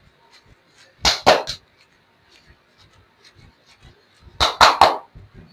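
Hands slapping the legs in quick sets of three during a massage: one burst about a second in and another near the end, with faint light taps between.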